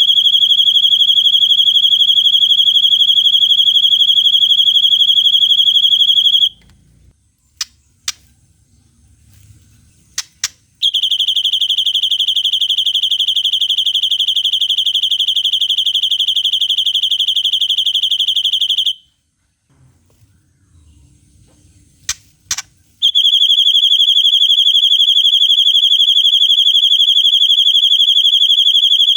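Bird song recording used for training shamas: long, fast, one-pitch high trills in the "cililin panjang" style. The first trill runs about six seconds, a second lasts about eight, and a third starts near the end. Each pause holds a couple of short sharp call notes.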